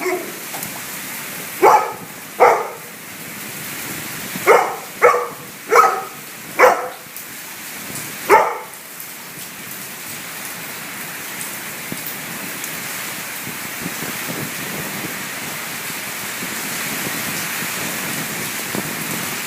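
Steady rain falling, with a dog barking about seven times in the first nine seconds.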